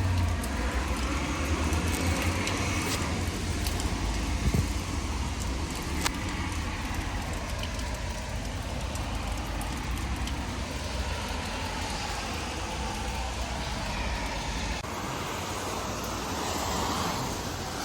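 Steady rumble and rushing noise of a moving vehicle in travel; the sound changes abruptly about fifteen seconds in.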